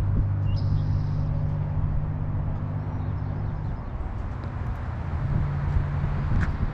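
Inside the cabin of a 2000 Ford Econoline E-150 van on the move: steady low engine hum under road and tyre noise, the hum easing a little about halfway through.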